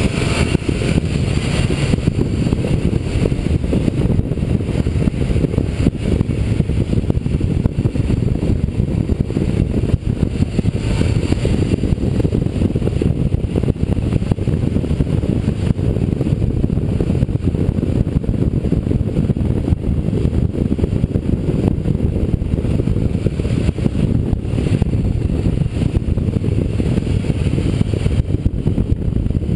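A motorcycle riding steadily at road speed: a constant low rush of wind and engine rumble on a camera mounted on the bike.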